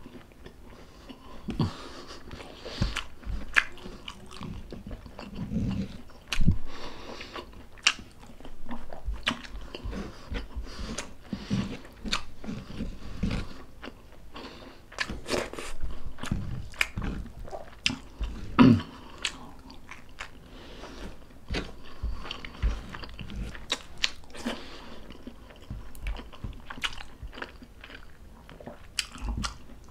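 A person eating close to the microphone: biting and chewing stuffed squid adobo, heard as irregular sharp clicks and short mouth sounds, with one louder sound about two-thirds of the way through.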